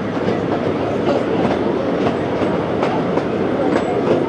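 Open-air park tourist train running along its track, heard from aboard: a steady rumble with repeated clicks of the wheels over the rail joints.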